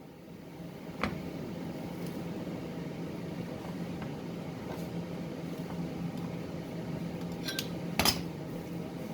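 Sherman 200M MIG welder running with a steady hum and hiss. It sets in with a click about a second in, and there is another sharp click near the end.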